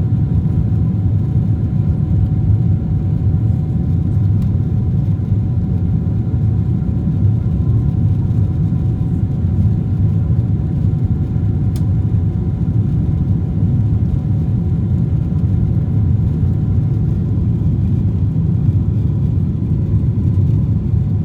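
Boeing 777-300 jet engines heard from inside the passenger cabin during takeoff: a loud, steady low rumble with a few faint steady whining tones above it.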